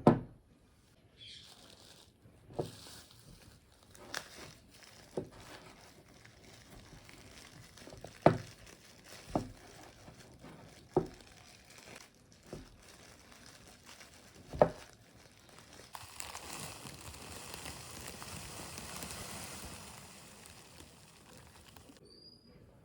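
Hands handling objects: a scattered series of light knocks and clicks with some crinkling, then about six seconds of steady rustling noise that stops near the end.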